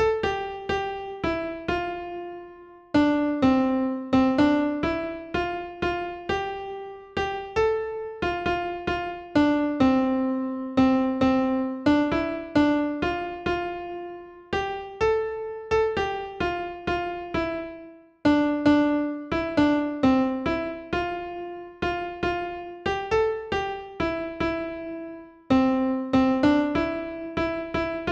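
Instrumental music: a gentle melody of single struck notes on a piano-like keyboard, each note ringing and fading, in a phrase that repeats about every seven seconds. No noise hiss.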